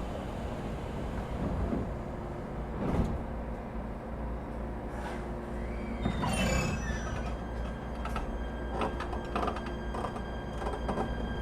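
Sliding passenger doors of an ET127 series electric train closing at a station stop: a knock about three seconds in and a louder clatter about six seconds in, over the steady hum of the stationary train's equipment.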